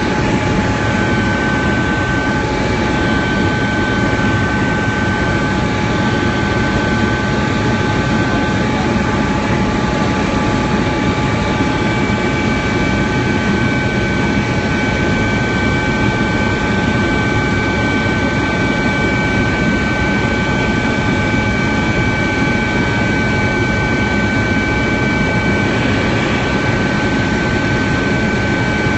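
Helicopter in flight, heard from inside the cabin: a loud, steady rumble of turbine engine and rotor, with several steady high whining tones over it.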